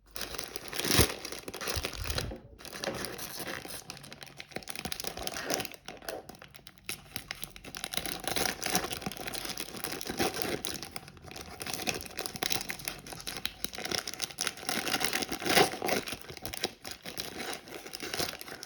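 Thick plastic packaging crinkling and crackling as it is handled and pulled open, in a continuous irregular patter with a few louder sharp snaps.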